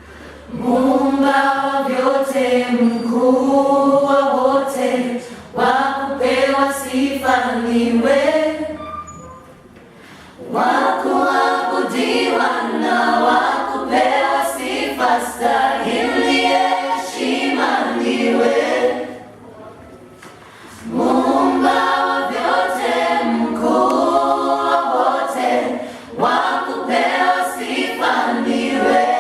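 A vocal group singing a Swahili worship song in harmony, in sung phrases with short breaks about nine and nineteen seconds in.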